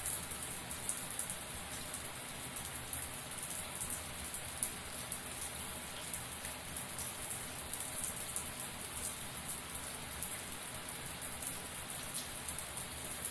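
A running shower: a steady hiss of water spray with a dense patter of drops striking, strongest in the high end, and a few louder single drops standing out.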